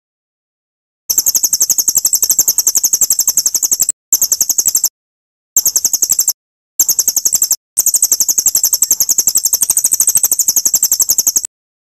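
A bird's rapid, high-pitched trill, about ten even notes a second, played back as an edited masteran training recording for murai batu. It starts about a second in and breaks off abruptly four times, with dead silence in the gaps.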